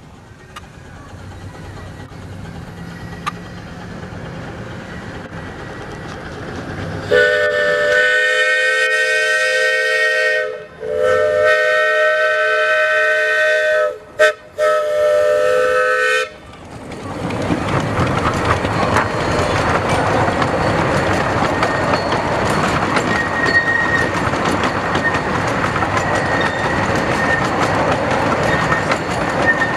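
Live-steam locomotive approaching, then its several-toned steam whistle sounding long, long, short, long, the grade-crossing signal. After the whistle the train runs close by with loud running and wheel noise.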